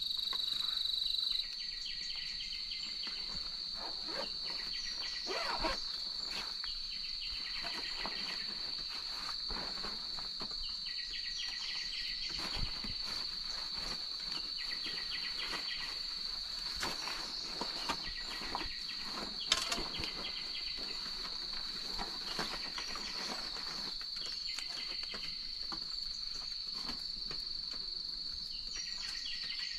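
Forest insects singing: a steady high-pitched drone, overlaid by another insect's rapid pulsed chirp that returns every three seconds or so. Scattered light clicks and knocks sound throughout.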